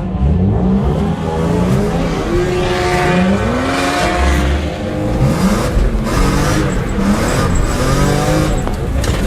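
Car engine heard from inside the cabin, revving hard, its pitch climbing and dropping back several times as it accelerates and changes gear.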